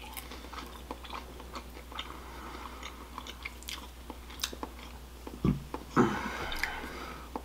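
Close-miked biting and chewing of baked sweet potato wedges, with many small wet mouth clicks. It gets louder and denser about six seconds in.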